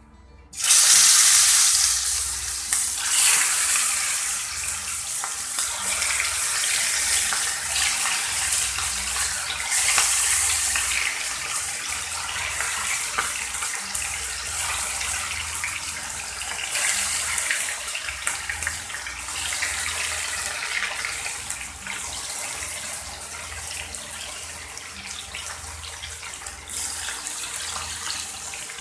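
Marinated chicken pieces sizzling in hot oil in a pan. The sizzle starts suddenly and loud about half a second in, then slowly gets quieter as the frying settles.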